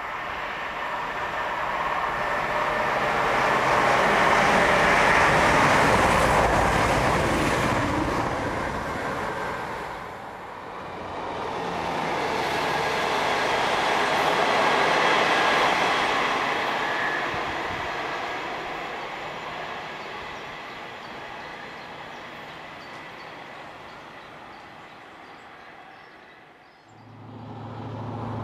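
Two-car diesel multiple unit running past on the line below: the rumble of engine and wheels on rail swells, peaks and slowly fades as it goes. Near the end the low engine hum of a second approaching train rises sharply.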